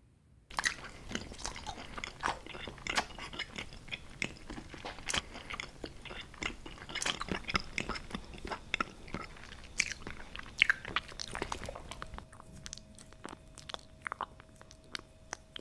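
Close-miked ASMR chewing and biting: a dense run of quick mouth clicks and snaps that starts suddenly and thins out near the end. A faint steady tone joins about eleven seconds in.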